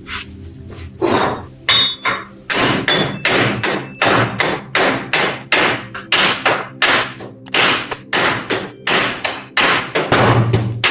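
Hammer blows striking in a steady, even rhythm of about two to three a second, after a couple of first strikes about a second in.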